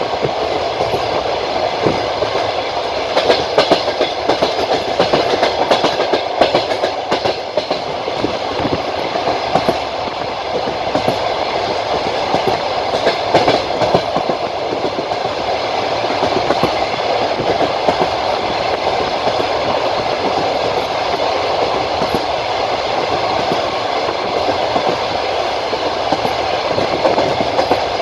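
Passenger train wheels rolling over the rails with a steady rumble, clicking as they cross rail joints again and again.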